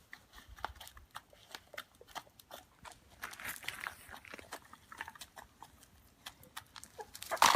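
A chicken pecking: a run of small, irregular taps, with a few faint soft clucks about three to four seconds in.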